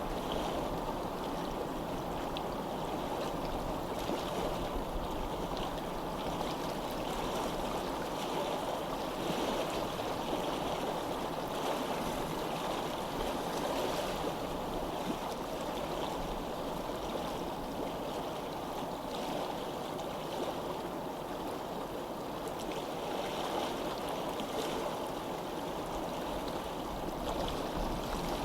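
Water flowing steadily in a stream, a continuous even rush without pauses.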